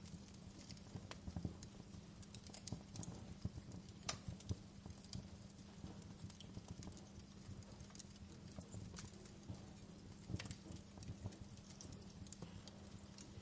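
Wood fire crackling: irregular sharp pops and snaps, a few louder than the rest, over a low steady hum.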